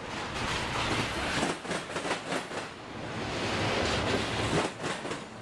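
Intermodal freight train rolling past, its trailer-laden flatcars giving a steady rushing rumble of wheels on rail. Runs of wheel clacks come about a second and a half in and again near the end.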